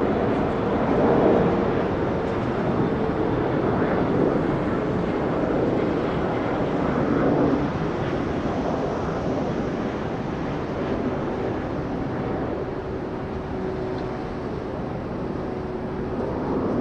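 A Boeing 777-300ER's twin GE90-115B jet engines running as the airliner moves past: a steady roar with faint held whining tones, slowly easing off through the second half.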